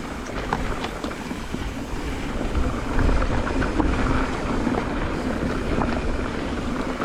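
Mountain bike riding down a loose dirt trail: tyres rolling over loose dirt and stones and the bike rattling, with many scattered clicks and knocks. A low rumble of wind on the microphone runs underneath.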